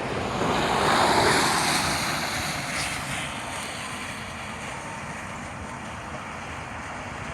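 A vehicle passing by on the road: tyre and road noise swells to a peak about a second in and fades away over the next few seconds, leaving a steady outdoor hiss.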